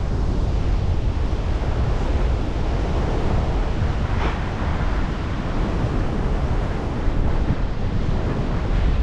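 Strong gusty wind buffeting the microphone, a steady low rumbling noise.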